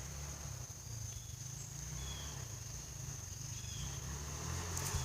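Distant dirt bike engine, a low hum that grows a little louder near the end as the bike approaches, under a steady high-pitched insect drone.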